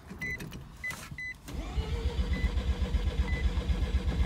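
Mazda RX-7 FC's 13B turbo rotary engine cranking on the starter motor, which spins up about a second and a half in and turns it over in a rapid, even rhythm without catching. The engine is not getting fuel, and the owner finds the fuel pump isn't turning on. A short electronic beep repeats about once a second.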